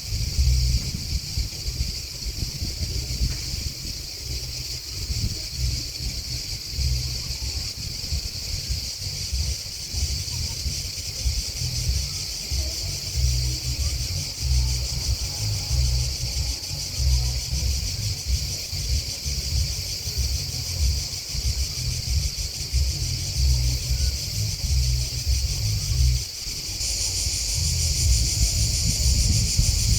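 Grasshoppers and crickets chirping in a steady, high-pitched chorus, which grows louder about 27 seconds in, over a low, uneven rumble.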